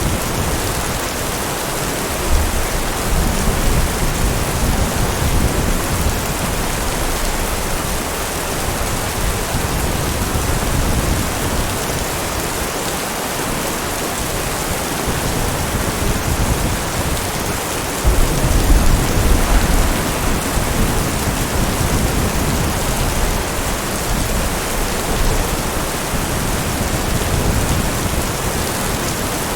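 Steady heavy rain with thunder rumbling low twice: once about two seconds in and again, louder, about two-thirds of the way through.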